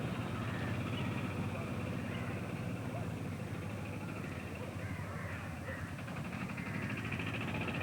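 A steady low engine drone with a fast pulse, with birds calling over it in short chirps.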